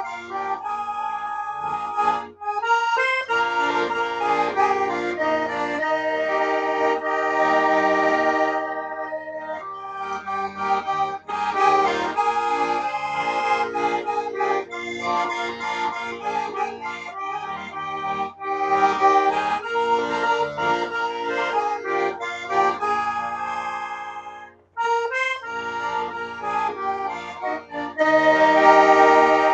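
Accordion playing an instrumental tune in sustained chords, with a brief pause about three-quarters of the way through.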